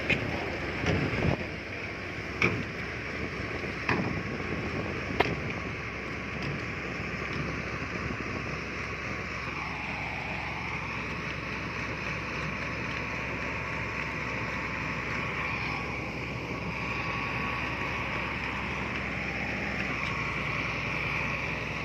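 Heavy diesel earthmoving machinery running steadily, with several sharp clanks in the first five seconds. The engine note dips briefly and recovers about ten seconds in.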